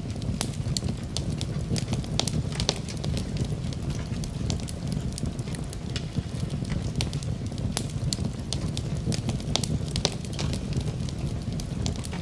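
Wood fire in a fireplace crackling, with many sharp, irregular pops over a steady low rumble.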